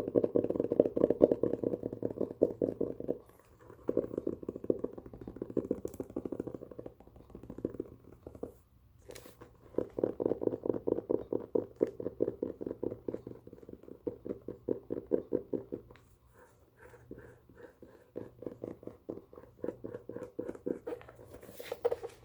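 Fingers handling a book in rapid tapping and scratching strokes, coming in runs of several seconds with short pauses between them.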